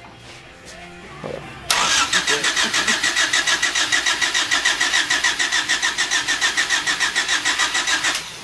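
Starter cranking the freshly rebuilt, turbocharged Honda D16Z6 SOHC four-cylinder on its first start attempt: a steady, rapid chugging of about ten compression pulses a second that starts suddenly about two seconds in, runs for some six seconds without the engine catching, and stops abruptly near the end.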